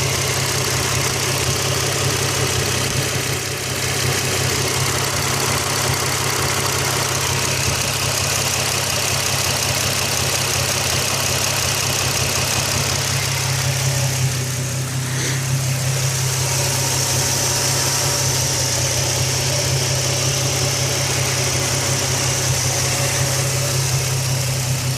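Nissan 350Z's 3.5-litre V6 idling steadily with a fast ticking from the top of the engine, a tick that speeds up and slows down with engine revs and whose cause is unknown.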